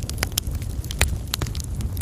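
Coal fire in a fireplace crackling: irregular sharp pops and snaps over a low, steady rumble of the flames, with the sharpest pop about a second in.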